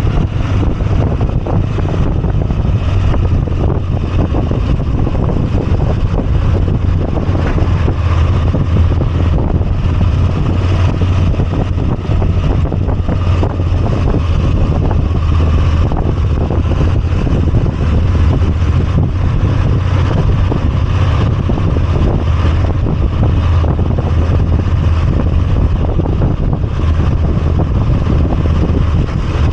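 Moto Guzzi V85TT's air-cooled V-twin engine running steadily while riding, with a constant low drone and wind rush over the microphone.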